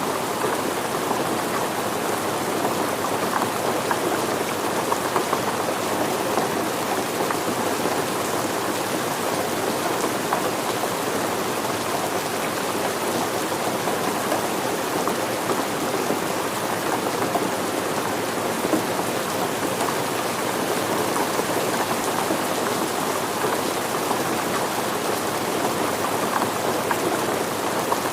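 Steady rain falling with a dense patter of drops hitting surfaces.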